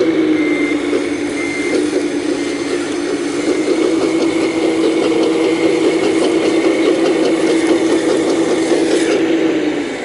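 Excavator running steadily: a continuous mechanical hum with a faint high whine, easing off near the end.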